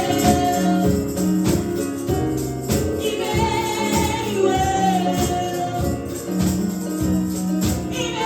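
Gospel praise and worship music: a band with drums and tambourine playing a steady beat while voices sing.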